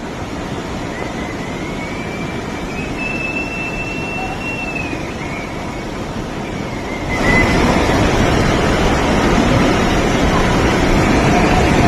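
Rushing water of a river in flood: a loud, steady rushing noise that gets suddenly louder about seven seconds in. A faint, thin high tone rises and falls over the first few seconds.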